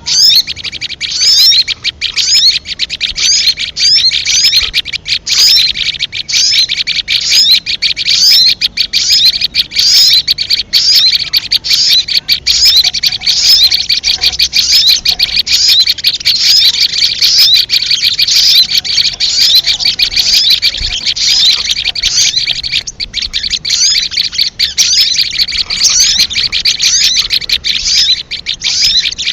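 Sogon bird call played as a trapping lure (suara pikat): a dense, unbroken stream of rapid, high chirps and twittering trills.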